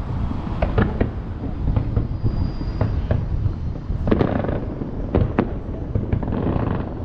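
Aerial fireworks going off: a rapid, irregular series of sharp bangs and booms over a constant low rumble of distant bursts, with a crackling hiss about four seconds in.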